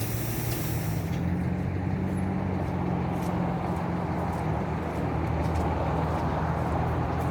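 Water hissing at a car wash, from the spray or soap brush, that cuts off sharply about a second in. A steady low mechanical hum goes on underneath.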